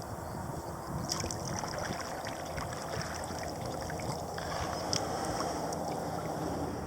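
Water splashing and trickling around a kayak and its paddle as it is paddled in toward shore, with a few sharp drips and knocks. Wind rumbles on the microphone throughout.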